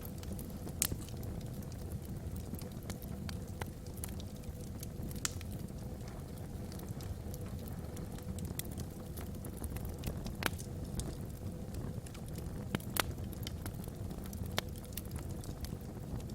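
Logs burning in a wood fireplace: a low steady rumble with scattered sharp crackles and pops, a few of them standing out louder.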